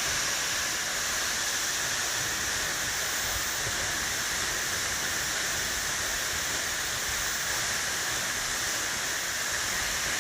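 Steady, unbroken rushing of a waterfall: an even hiss of falling water.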